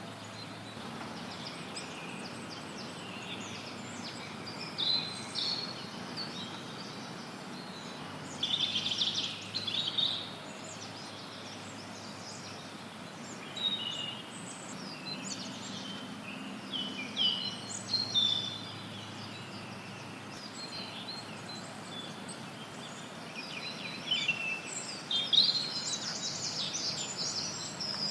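Forest songbirds singing and chirping in quick, overlapping phrases over a steady hiss of white noise. The song comes in clusters, busiest about a third of the way in and again near the end.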